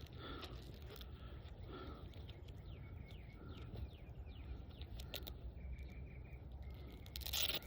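Faint birds calling, short repeated chirps and quick falling notes, over a steady low background, with a brief loud rustle near the end.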